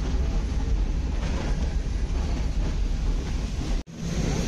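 Nilgiri Mountain Railway toy train, steam-hauled, running along the line: a steady rumble and rattle of the coaches on the rails. About four seconds in, the sound cuts out for an instant and then resumes.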